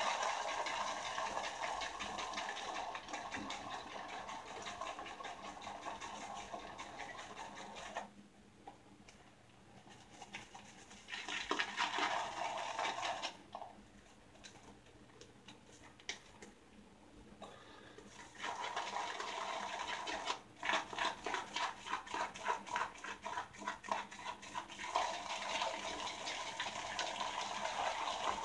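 Shaving brush swirling shaving soap into lather in a bowl: rapid wet swishing and squelching strokes, pausing twice for a few seconds.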